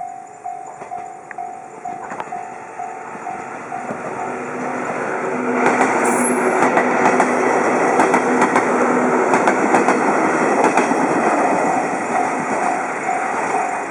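Level-crossing warning bell ringing in steady strikes, about two a second, while a JR 107 series electric train pulls away from the station and passes. Its wheels click over the rail joints with a low motor drone, drowning the bell in the middle. The bell stands out again near the end as the train draws away.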